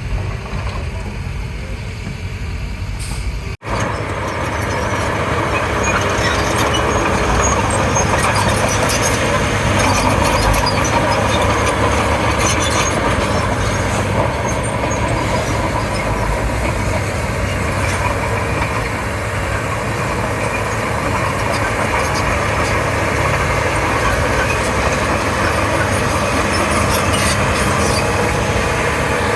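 Komatsu D31P crawler bulldozer's diesel engine running under load with clanking from the steel tracks, broken by a short gap about three and a half seconds in, then steady and louder.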